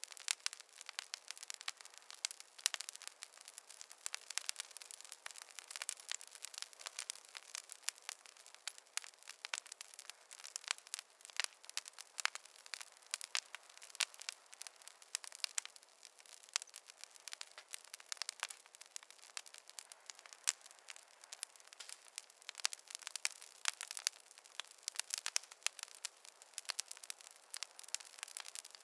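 Campfire crackling: a dense, uneven run of small sharp pops and snaps over a soft hiss.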